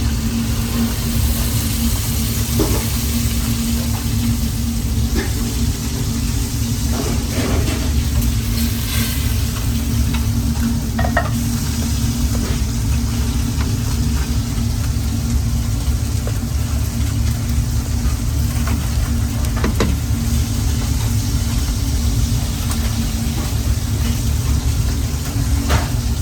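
Food frying and sizzling in a pan while it is stirred, with occasional short clicks of a utensil against the pan. A steady low rumble and hum run beneath it.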